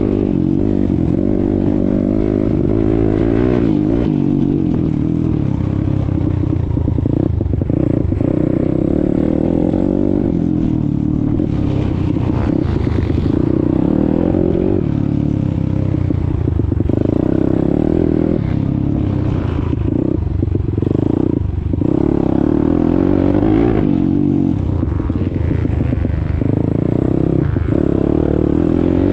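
YCF 190 Daytona pit bike's single-cylinder four-stroke engine running while being ridden, revs rising and falling, with intermittent clattering.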